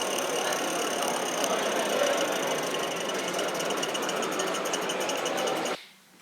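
Gauge 1 model tram running on its track: a steady mechanical whir with rapid fine ticking from its gears and wheels, cutting off suddenly near the end.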